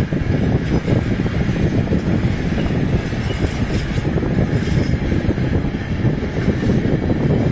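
Freight train of railway tank wagons rolling past at close range: a steady, loud rumble of wheels on the rails.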